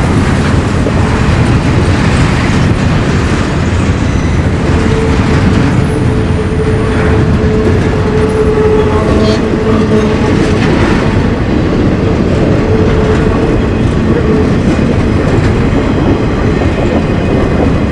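A train passing close by, with a steady loud rumble and clatter of wheels on the rails. A thin steady squealing tone rides over it for several seconds from about five seconds in.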